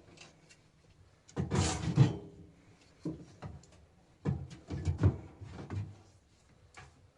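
Objects being handled: two bouts of knocks, thumps and clatter, about a second and a half in and again around four to six seconds in, like things being moved or set down.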